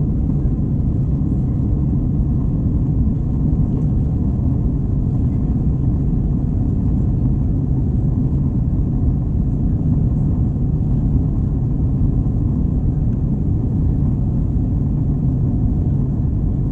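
Steady low rumble of an Airbus A321 cabin in flight: the hum of the jet engines and airflow past the fuselage, heard from a window seat.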